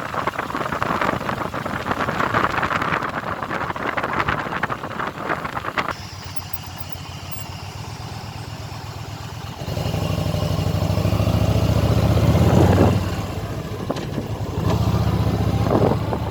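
Rushing wind and road noise while riding a motorcycle. About six seconds in it gives way suddenly to the motorcycle's engine running at low revs. The engine grows louder about ten seconds in, eases off, then picks up again near the end.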